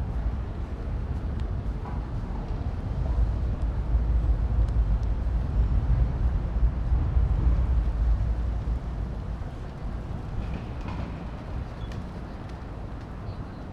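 Low outdoor city rumble that swells for several seconds in the middle and then eases off, with a few faint clicks over it.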